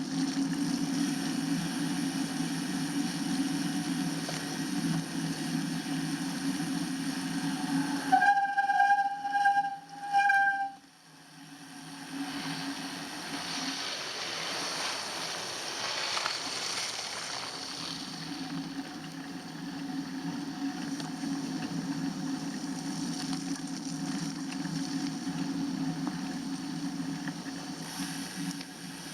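Steady low rumble of a bicycle being ridden, broken about eight seconds in by a high squeal in two parts. The rumble then drops away for a moment and slowly builds up again.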